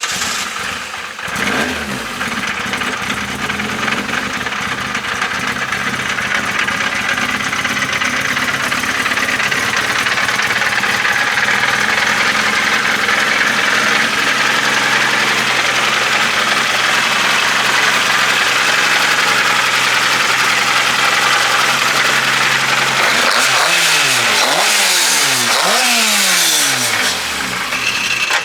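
Ford Escort Mk2 rally car's engine running at a steady idle after its rebuild, then blipped several times in the last five seconds, the revs rising and falling with each blip.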